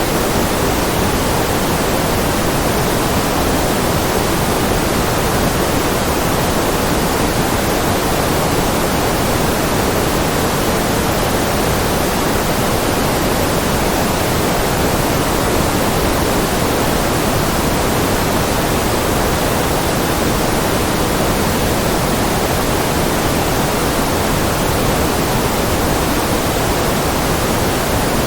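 A continuous white-noise track: an even, unchanging hiss with no tones or breaks, fuller in the lower middle than in the highs.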